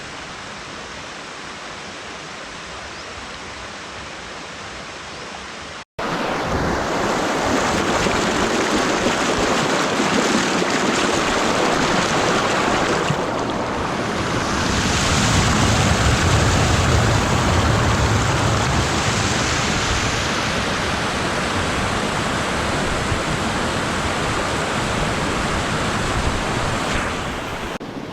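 Steady rush of flowing water. About six seconds in there is an abrupt cut, after which the water noise is markedly louder.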